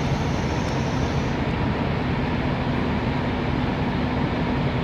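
Idling diesel truck engine: a steady low drone with a faint constant hum.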